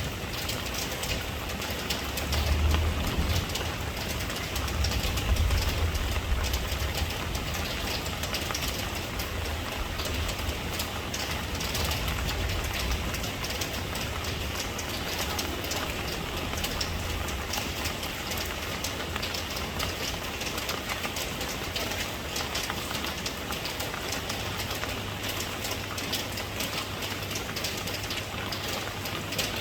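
Steady rain, an even hiss of falling drops with fine crackle. A low rumble underneath swells for a few seconds near the start, then settles.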